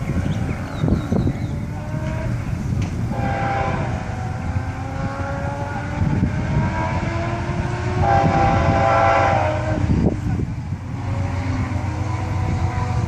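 Florida East Coast Railway freight train's diesel locomotive horn sounding two long blasts, the first about three seconds in and the second about eight seconds in, over the steady rumble of the approaching train.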